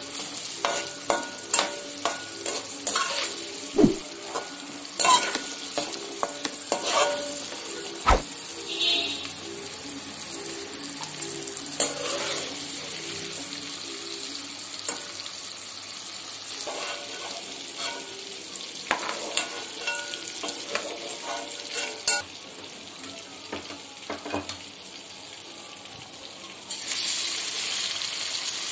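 Chopped onion sizzling in hot oil in a metal wok, stirred with a metal spoon that clicks and scrapes against the pan. Near the end, chopped tomatoes go into the oil and the sizzle turns louder.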